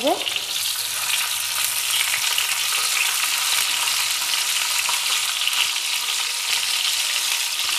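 Chicken-stuffed pointed gourds (potol) shallow-frying in hot oil in a frying pan: a steady sizzle with fine crackling.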